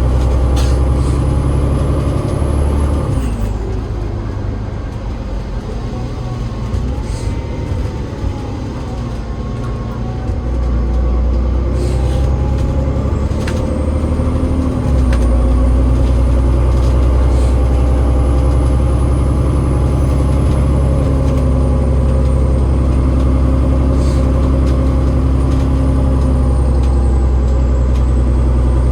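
Cummins ISL8.9 straight-six diesel and ZF EcoLife six-speed automatic gearbox of an Enviro500 double-decker bus running, with a whine from the driveline. The engine drops back from about three seconds in, with whining tones that fall and rise, and then pulls hard again about fifteen seconds in.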